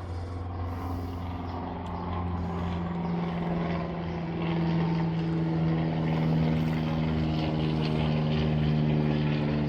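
A steady engine drone, a low hum that holds its pitch and slowly grows louder.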